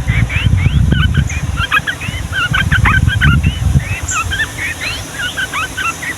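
Sooty-headed bulbuls singing a long, busy run of short whistled notes that rise and fall, the notes crowding and overlapping. A low rumble runs underneath.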